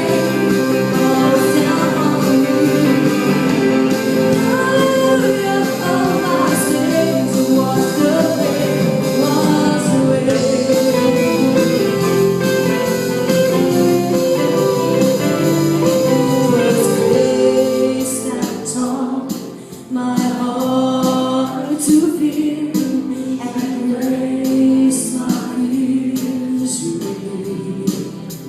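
Church worship band playing, with singing and guitar over a full band. The music drops back briefly about two-thirds of the way through, then picks up again.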